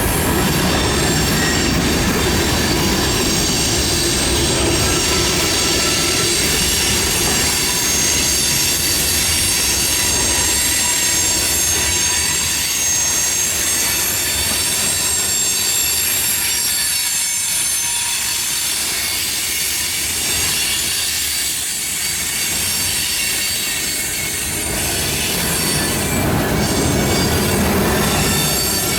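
Train cars rolling past with their wheels squealing: several high steady tones over a rumble and clatter of wheels on rail. The low rumble eases a little past the middle and then builds again near the end.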